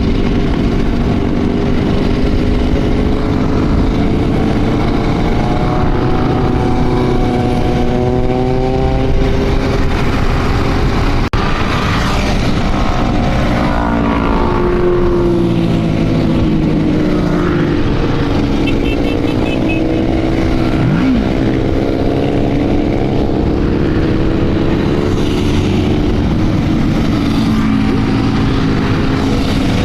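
Several motorcycle engines running together at riding speed, their pitches rising and falling as they speed up and ease off, over a steady rush of wind and road noise.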